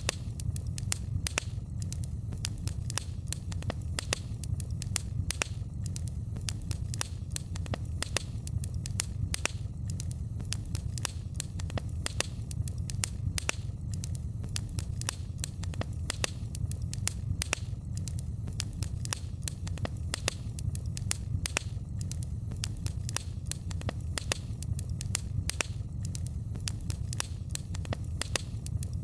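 Wood fire in a fireplace crackling, with many sharp pops and snaps each second over a steady low rumble of the burning.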